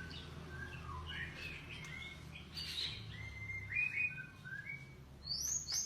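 White-rumped shama (murai batu) singing a varied string of clear whistled notes and short phrases, ending with a quick run of falling high notes. A low steady hum lies underneath.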